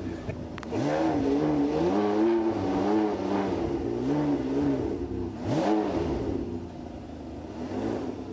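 Ferrari engine being revved in a series of throttle blips, its pitch rising and falling about half a dozen times, with the sharpest, highest rev about five and a half seconds in.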